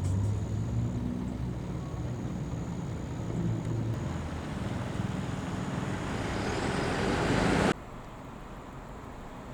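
A fire engine's engine running with road noise that grows steadily louder as it approaches, then cuts off abruptly about three-quarters of the way through, leaving a quieter hiss.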